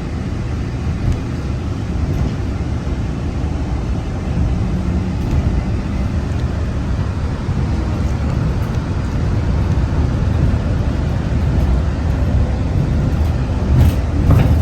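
Walt Disney World monorail running between stations, heard from inside the car: a steady low rumble that grows gradually louder, with a couple of short knocks near the end.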